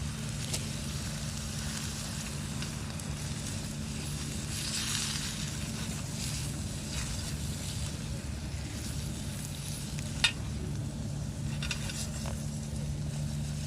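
Food sizzling in a frying pan over a small wood fire, with light crackles and one sharp snap about ten seconds in. A steady low engine drone runs underneath.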